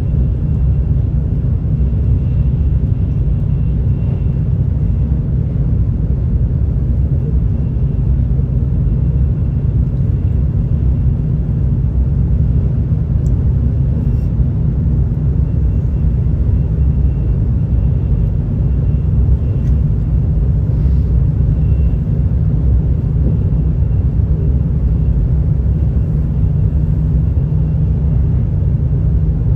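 Steady deep rumble inside the passenger car of a JR Central N700S Shinkansen train as it runs, with a faint steady high whine above it.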